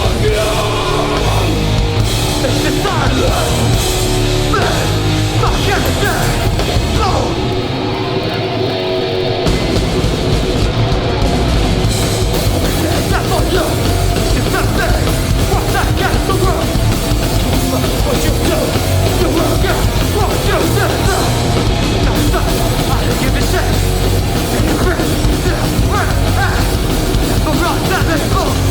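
Hardcore band playing live at full volume: distorted guitars, bass and drums. About seven and a half seconds in, the bass and drums drop out for a two-second break, then the full band crashes back in.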